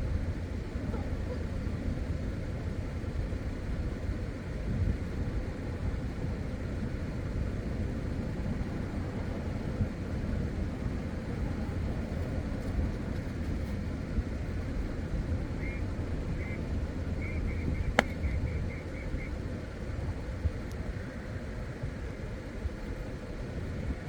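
Steady low rumble of outdoor background noise, with a short run of high chirps about two-thirds of the way through and a single sharp crack soon after.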